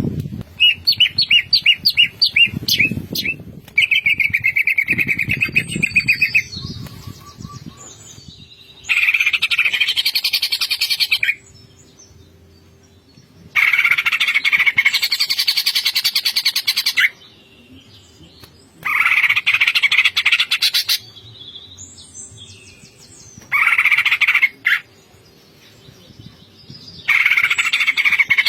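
Green leafbird (cucak ijo) singing in the hard, rapid 'ngentrok' style. It opens with a quick run of rising chirps, then sings dense trilling bursts of two to three seconds, with short pauses between them. This is the full, busy song of a bird in top singing form (gacor).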